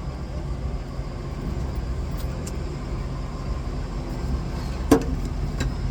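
Steady low rumble of a vehicle engine running, with a single sharp click about five seconds in.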